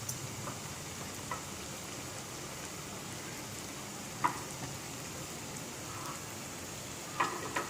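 Dosa batter sizzling steadily in hot coconut oil in the wells of a paniyaram pan, with a few light clicks.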